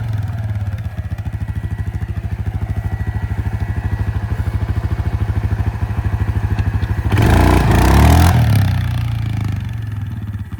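Small motorbike engine idling with a quick, even putter, revved hard once for about a second around seven seconds in, then settling back to idle.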